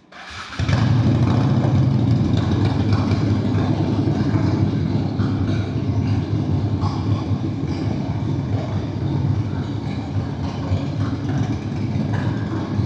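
1997 Honda Steed VLX 600 V-twin engine starting: it fires about half a second in and then idles steadily.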